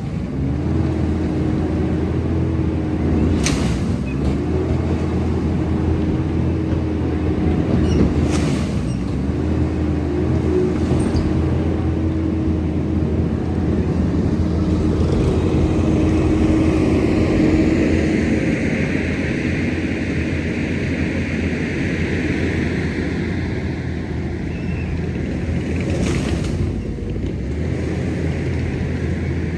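Diesel engine of a Kubota SVL97-2 compact track loader running steadily. Its pitch dips briefly and recovers three times in the first ten seconds, and a few sharp knocks sound over it.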